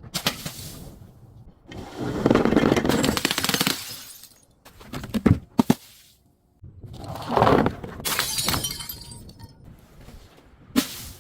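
Glass bottles being crushed and breaking: two long stretches of crunching, grinding glass, with a few sharp cracks between them and another sharp crack near the end.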